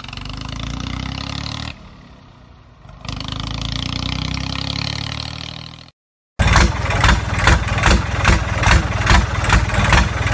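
Engine sounds: a steady running hum that drops away briefly and comes back. After a short silent cut, a louder engine chugs in even beats, about three a second.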